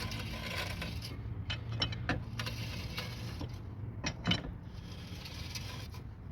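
Irregular metallic clicking and scraping from a 2002 Honda CR-V's wheel as it turns, over a steady low hum. The noise comes from a rusted brake dust shield with rust debris caught between it and the brake rotor.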